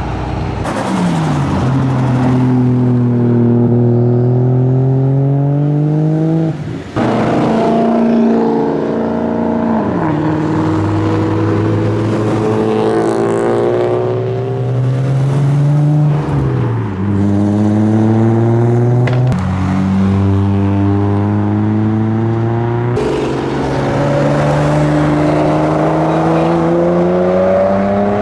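Modified car engines accelerating hard away, one after another. Each engine note climbs steadily in pitch and then drops abruptly at a gear change, about half a dozen times.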